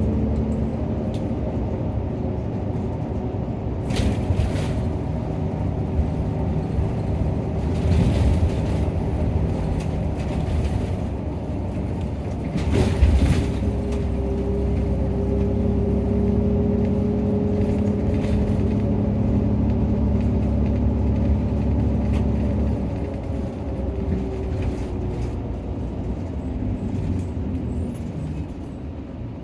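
Diesel engine of a Nissan Diesel PKG-RA274KAN city bus running under way, heard from inside the cabin. The engine note holds steady, then falls away and gets quieter about 23 seconds in as the bus eases off. Short noisy bursts come about 4, 8 and 13 seconds in.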